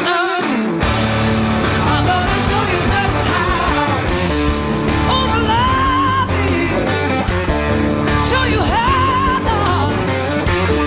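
Live blues-rock band playing with singing and guitar. A sparser opening line gives way to the full band, with bass and drums, about a second in.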